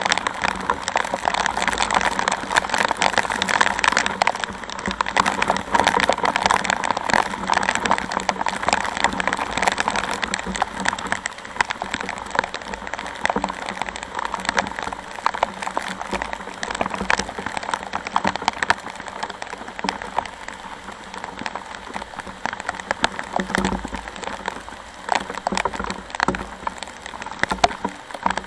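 Heavy rain with a dense patter of drops striking close by, over a steady low hum.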